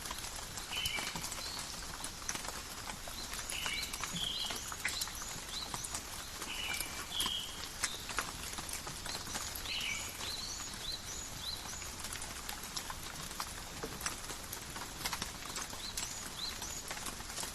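Steady light rain in a forest, drops pattering and tapping all the while, with small birds giving short repeated chirps over it, mostly in the first half and again near the end.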